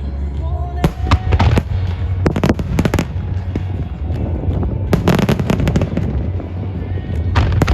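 A starmine barrage of large aerial firework shells (8-gō, about 24 cm) bursting in rapid clusters, about four volleys of sharp bangs, over a continuous low rumble of echoing reports.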